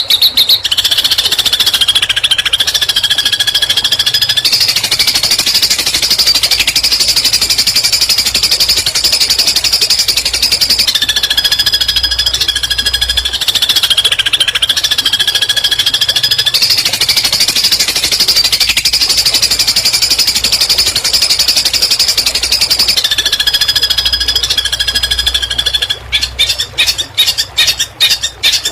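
A songbird's unbroken rapid-fire trill, the 'tembakan' burst prized in Indonesian song-bird training, with short whistled notes sounding over it three times. Near the end it breaks into separate sharp chips, about four a second.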